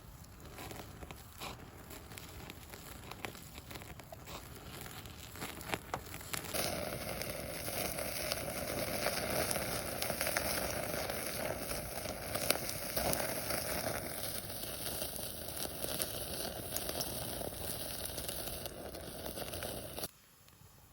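Wood bonfire burning with small crackles and pops over a steady hiss; about six seconds in the hiss grows louder and fuller, and near the end it cuts off suddenly.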